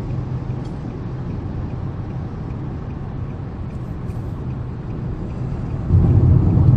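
Car engine and road noise heard from inside the cabin of a moving car, a steady low rumble that gets clearly louder about six seconds in.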